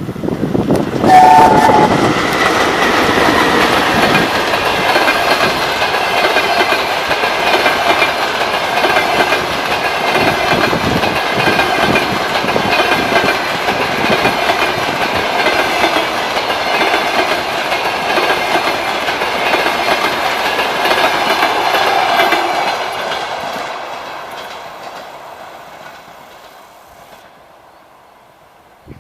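VL10 electric locomotive and its passenger coaches passing close by. About a second in there is a brief two-tone horn signal, followed by the long rumble and clatter of the train's wheels on the rails, which fades away over the last several seconds.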